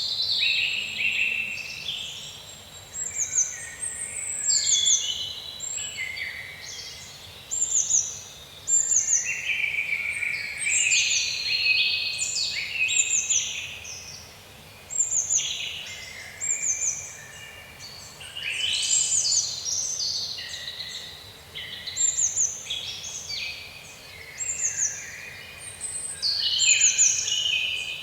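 A chorus of many small birds chirping and singing together: a dense, unbroken stream of quick, high chirps, many of them sliding downward, overlapping one another.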